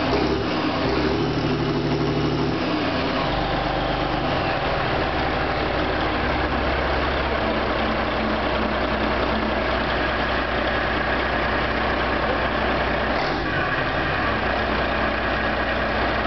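Scania DS11 six-cylinder turbodiesel engine running, its note shifting about three seconds in and then holding steady.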